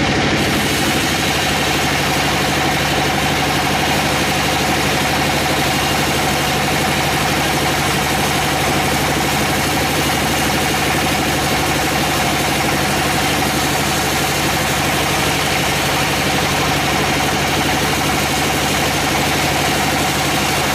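Sawmill machinery running steadily: an engine or motor hum with a constant whine over a wide mechanical hiss.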